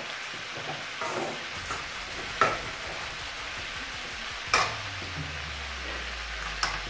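Marinated chicken pieces sizzling as they fry in oil in an aluminium kadai, with a steel spoon stirring and knocking against the pans about four times. A low hum joins in about two-thirds of the way through.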